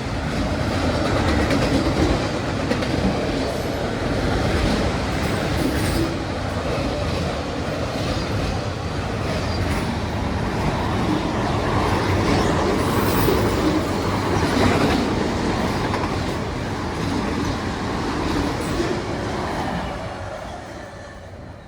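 A CSX freight train's cars rolling past on the track, steel wheels clacking over rail joints, with the sound dying away over the last couple of seconds.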